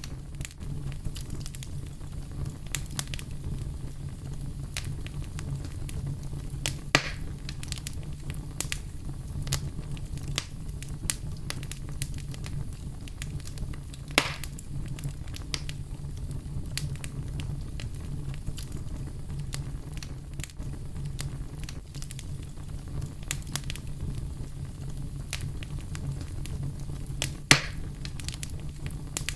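Wood fire crackling, with a steady low rumble under scattered small snaps and three louder pops: one about a quarter of the way in, one near the middle and one near the end.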